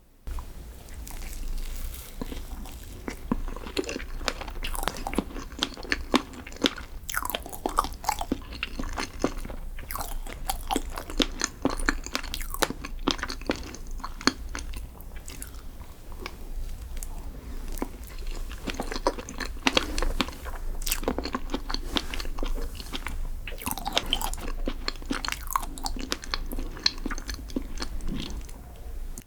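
Close-miked eating of chocolate desserts: continuous biting, crunching and chewing, with many small irregular crackles and clicks, over a steady low hum. It starts and stops abruptly.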